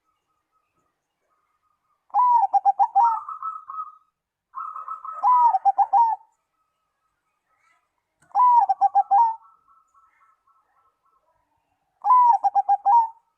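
Zebra dove (perkutut) cooing: four separate song phrases a few seconds apart. Each opens with a bent, rising-then-falling note and runs into a quick series of short, clipped coos. A quieter, higher rolling trill follows some phrases.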